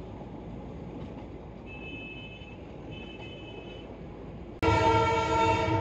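Darjeeling Himalayan Railway narrow-gauge train running with a steady rumble, then a loud, sustained horn blast starts suddenly near the end and cuts off abruptly.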